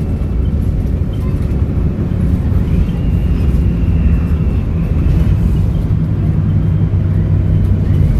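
Volvo B7RLE bus engine running under load, with a high turbo whistle that rises about two and a half seconds in, holds for a couple of seconds, then fades and rises again near the end.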